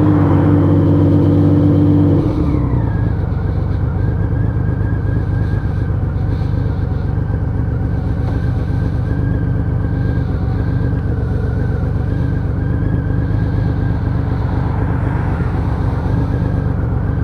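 Exhaust of a freshly rebuilt Honda Valkyrie 1500's flat-six engine heard while riding. It pulls hard for about two seconds, then the revs drop and it runs on at a steady lower note.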